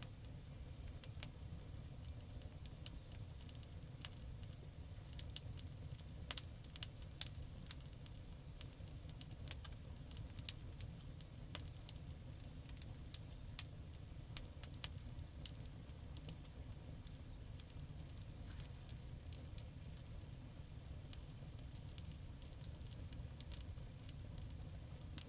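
Campfire crackling: irregular sharp pops and snaps over a steady low rumble, busiest about five to eight seconds in.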